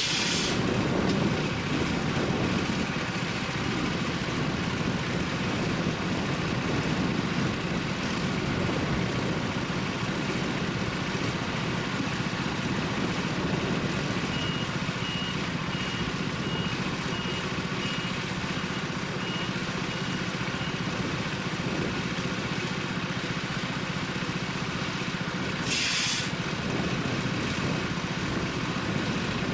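Isuzu FSR 700 hi-rail truck's diesel engine running steadily, with its reversing beeper sounding a string of beeps for several seconds midway. Short hisses of released air come at the start and again near the end.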